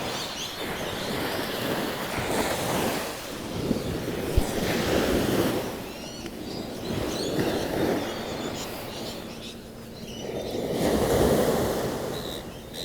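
Ocean surf washing onto a beach, the sound swelling and falling away every few seconds, with the biggest swell near the end. A brief low bump about four seconds in.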